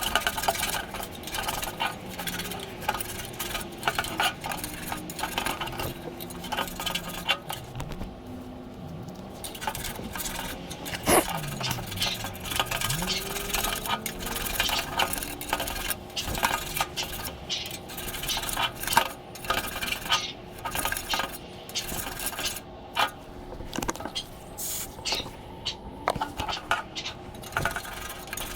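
Light metal clinks, taps and scraping as sheet-metal furnace parts and tools are handled and cleaned, with many short clicks throughout.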